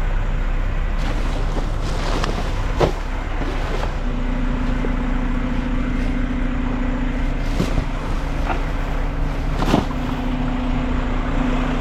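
Front-load garbage truck's diesel engine running while the driver works the fork lift arms. A steady hum joins about four seconds in, and there are a few short knocks, the loudest near the end.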